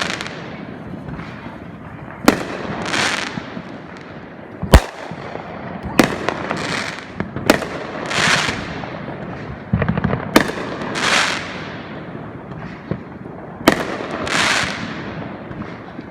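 Consumer aerial fireworks going off one after another, about six shots in all. Each is a sharp bang followed by about a second of crackling hiss, and the loudest bang comes about five seconds in.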